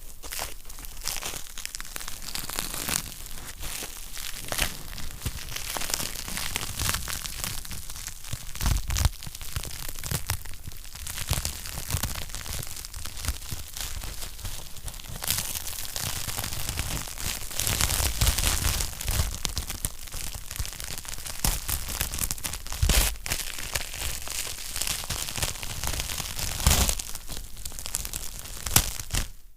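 Wood fire burning in a fireplace, crackling steadily with dense small snaps and a few louder pops.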